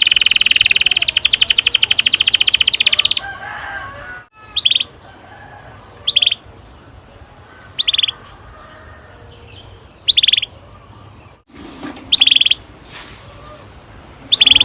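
Domestic canary song: a loud, very fast rolling trill that stops about three seconds in, then single short rising chirps every couple of seconds.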